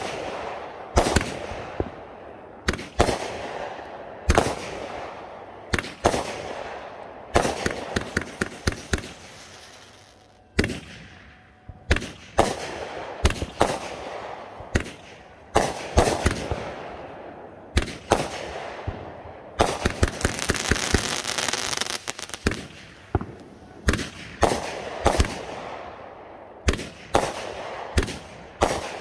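Consumer aerial fireworks going off shot after shot, a sharp bang every second or two. Clusters of rapid crackling come between the bangs, with a longer hissing crackle about two-thirds of the way in.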